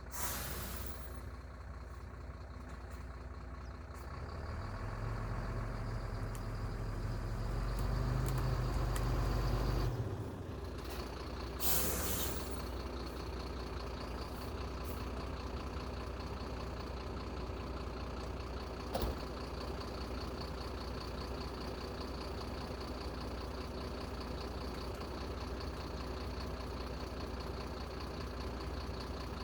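Heavy diesel machine's engine running steadily, labouring harder for a few seconds before easing off, with a short air hiss at the start and another about twelve seconds in, and a single click later.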